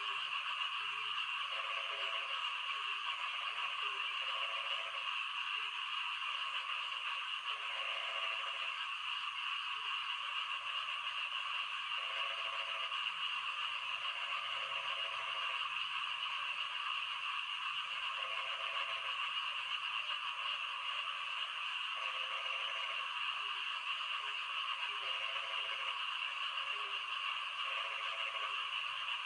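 Frogs croaking in short repeated calls, about one every second or so, over the steady hiss of falling rain.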